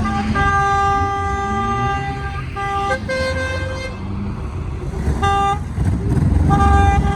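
Truck air horns sounding several times, a long blast then shorter ones, one at a slightly different pitch, over the low rumble of engines.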